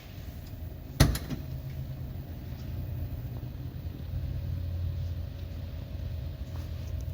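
1948 Chevrolet pickup's engine idling with a steady low rumble, with one loud slam of a panel shutting about a second in.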